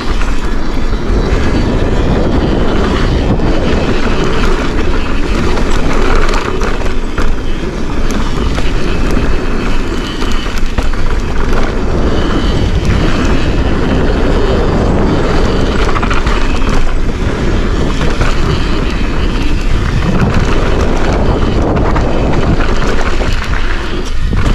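Forbidden Dreadnought full-suspension mountain bike riding down a dirt trail: steady tyre rumble with frequent clicks and rattles from the bike over rough ground, and wind buffeting the camera microphone.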